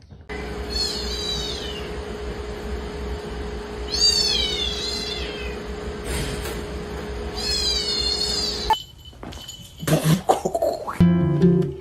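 Domestic cat meowing three times, high-pitched drawn-out calls a few seconds apart, over a steady background hum.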